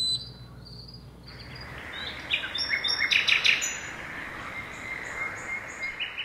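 Outdoor ambience with birds chirping: a cluster of quick high chirps about two to three seconds in, over a steady faint background hiss.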